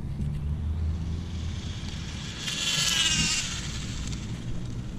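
HPI Pro 4 RC car, running on a 2S battery, passing at full speed on a speed run. Its high whine swells to the loudest point about two and a half seconds in, then fades within a second.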